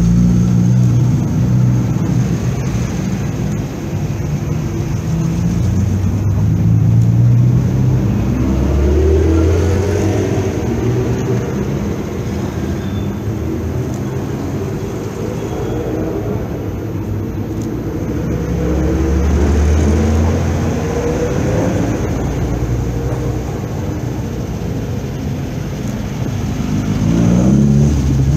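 Classic rally cars' engines running as the cars pull away one after another at low speed, the note rising in three swells as each accelerates off: about a third of the way in, about two-thirds in, and near the end.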